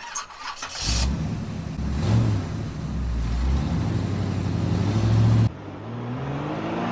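Motor vehicle engine running amid road noise. After an abrupt cut about five and a half seconds in, an engine revs up, its pitch rising.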